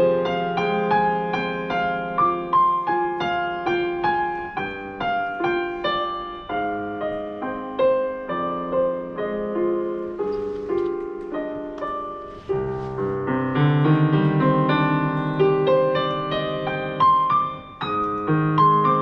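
Solo piano playing a prelude: a flowing melody over broken chords, growing louder with deeper bass notes from about two-thirds of the way in.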